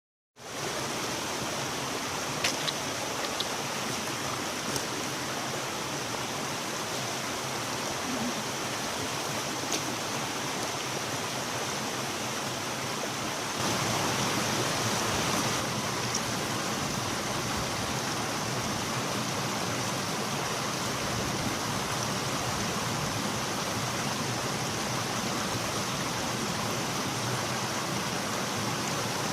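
Mountain valley stream rushing steadily, with a few faint ticks in the first ten seconds; it swells a little louder for about two seconds near the middle.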